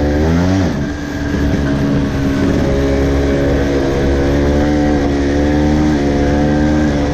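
Vespa scooter's two-stroke engine running under way. Its pitch climbs, drops about a second in, then holds fairly steady.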